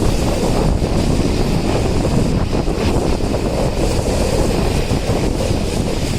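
Wind rushing over the microphone from a moving train, over the steady rumble of the train running.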